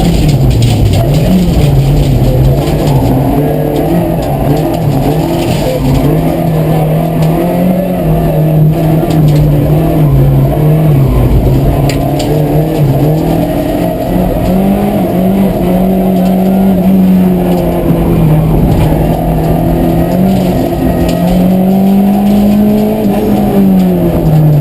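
Rally car engine running hard through a stage, its pitch rising and falling with gear changes and lifts, dropping about a second in and again near the end.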